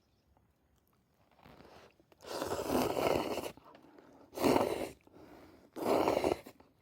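Curry noodles slurped up hot, three times: a long slurp, then two shorter ones.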